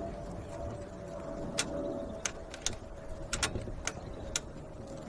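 Dnepr 16 sidecar motorcycle's flat-twin engine running steadily under way, with a series of sharp, irregular clacks and knocks from about a second and a half in.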